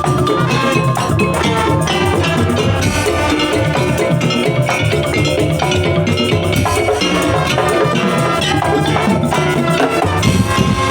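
Madurese daul (tongtong) percussion ensemble playing a fast, dense rhythm: drums with tuned metal percussion ringing over them.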